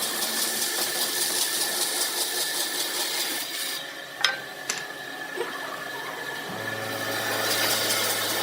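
A power tool working wood with a steady hiss, which drops away about halfway through. Two sharp clicks follow, then a motor starts with a steady low hum as the cutting hiss comes back.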